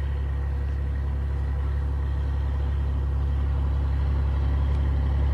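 Vehicle engine idling: a steady low rumble that grows slightly louder.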